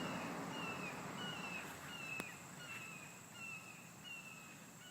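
A hawk calling, which the observer takes for a Cooper's hawk: a steady series of short, slightly falling notes, about three every two seconds.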